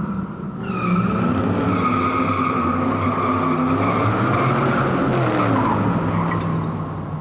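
Car tires squealing continuously over a running, revving engine, ending in an abrupt cut.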